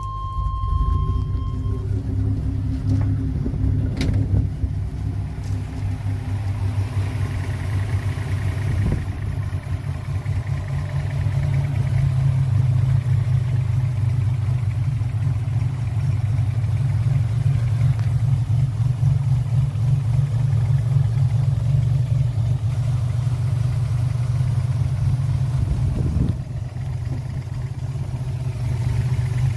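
A 1987 Buick Turbo T's turbocharged 3.8-litre V6, a freshly installed engine, running at idle with a steady low rumble. It gets louder about eleven seconds in and drops back near the end.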